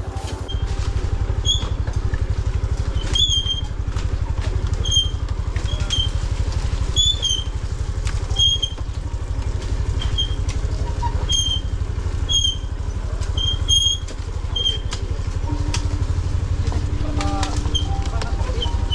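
A small engine running steadily, with a short high chirp repeating about once a second over it.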